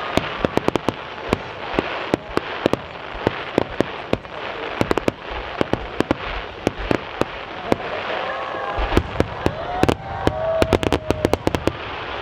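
Fireworks display: a rapid, irregular run of sharp bangs and pops from bursting aerial shells. They come thickest about nine to eleven seconds in.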